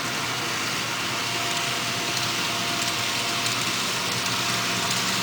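Model CP double-stack intermodal train running on the layout: a steady, even whirring rumble from the locomotives and cars on the track, with a faint steady tone throughout.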